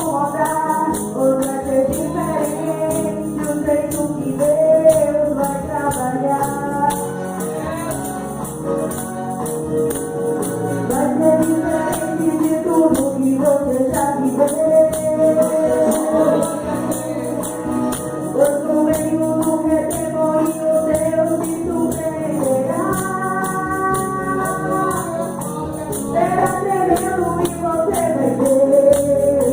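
Worship music: a gospel song sung with a tambourine shaking and striking in a steady rhythm.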